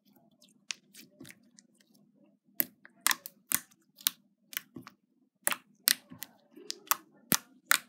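Jiggly slime being squeezed and poked by hand, giving a string of sharp clicks and pops; they are sparse at first and come about twice a second from a couple of seconds in.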